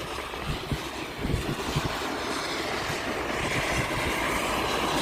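Steady rushing vehicle noise that grows louder, with irregular low thumps of wind on the microphone.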